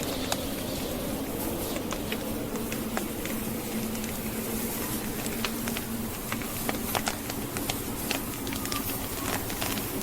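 Logs burning in a fireplace, crackling with frequent sharp pops and snaps, over the steady rushing of blizzard wind.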